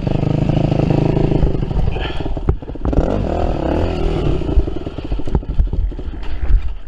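Yamaha WR250F four-stroke single-cylinder dirt bike engine running and revving, its pitch dipping and rising about halfway through, with scattered sharp knocks and clatter.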